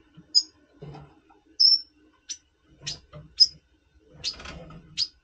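Red siskin (double pastel mutation) calling in breeding condition: about eight short, high chirps and brief whistled notes at irregular intervals.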